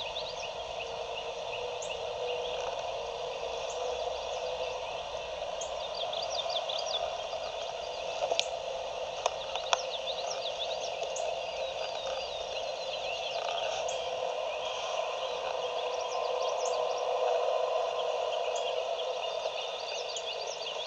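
Many songbirds chirping and singing over a steady background din, with two sharp clicks about eight and ten seconds in.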